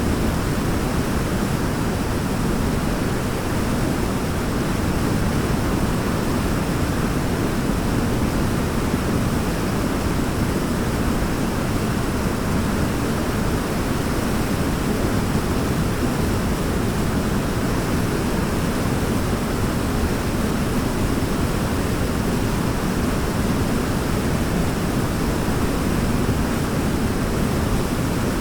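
Waterfall rushing in a steady, unbroken roar, with most of its weight in the low end.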